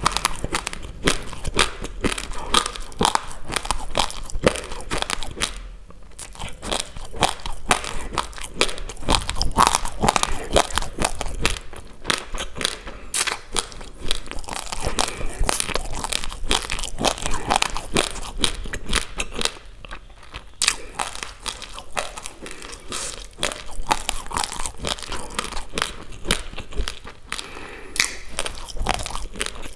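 Person chewing a mouthful of uncooked basmati rice close to a clip-on microphone: hard grains crunching rapidly and without pause, easing off briefly twice.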